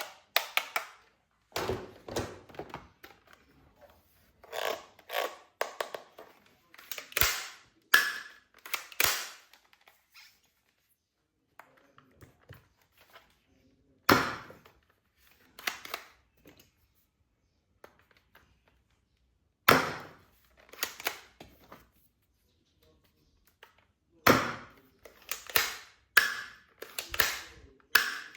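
Hard plastic toy gun parts being handled and fitted together: irregular sharp clicks and knocks in clusters, with short quiet pauses between and a few louder thunks.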